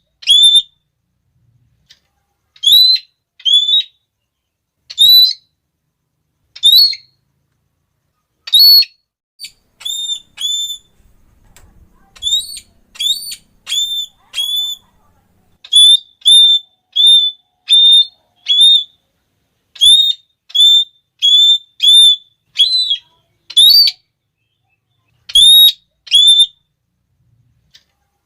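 Red-cheeked parrot giving its shrill, repeated 'klee' call notes, short and sharp, some single and some in quick runs of two to five, with brief silent gaps between them.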